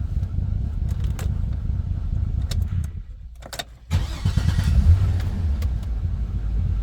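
The 2006 GMC pickup's engine idling with a steady low rumble. About three seconds in it drops out for most of a second, then comes back with a sudden surge.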